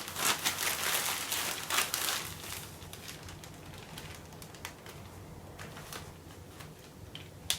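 Rustling and crinkling of packaging and clothing being handled, busiest in the first two or three seconds, then quieter with a few scattered clicks.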